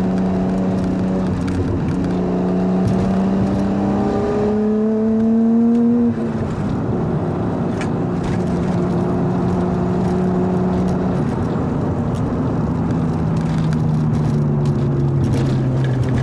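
Nissan RB25DET turbocharged straight-six with a straight-pipe exhaust, driving. The engine note climbs for a few seconds under acceleration and drops suddenly about six seconds in. It then holds steady and slowly falls near the end.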